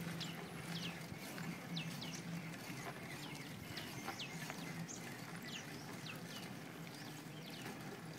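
Birds chirping: many short, quickly falling calls, a few each second, over a faint low hum that comes and goes.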